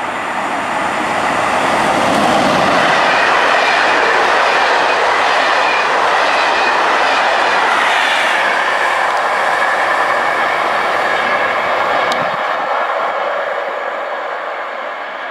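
Locomotive-hauled SNCF Corail Téoz passenger train passing close by: a steady rush of wheels on rail. It swells over the first two seconds, stays loud for several seconds while the coaches go by, and fades over the last few seconds.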